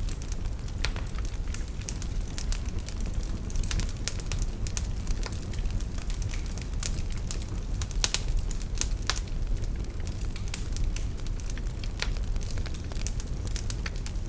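Wood fire in a fireplace crackling and popping, with irregular sharp snaps over a steady low rumble of the burning fire.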